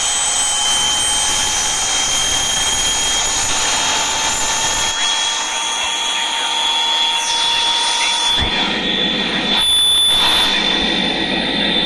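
Helicopter turbine engine whine: several steady high tones that climb slowly in pitch as the rotor spins up. The sound changes abruptly a few times in the second half.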